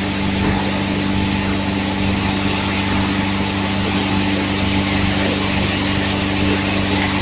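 Automatic PET bottle washing machine running: a steady electric motor hum with a constant hiss over it.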